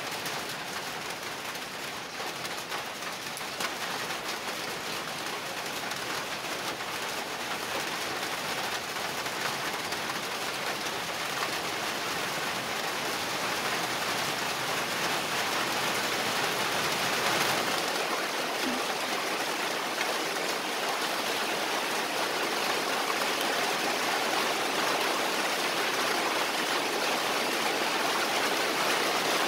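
Steady rain falling, an even hiss that grows gradually louder.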